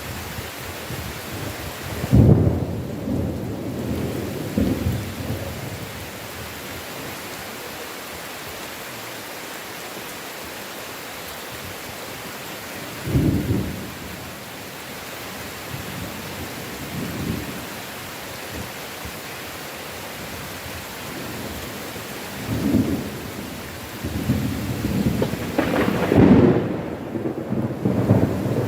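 Steady heavy rain with rolling thunder. A loud rumble breaks about two seconds in, a shorter one comes near the middle, and rumbling builds again over the last few seconds.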